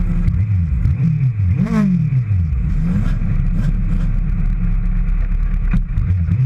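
Race motorcycle engines being revved, with quick throttle blips that rise and fall in pitch, several overlapping, over a steady engine drone.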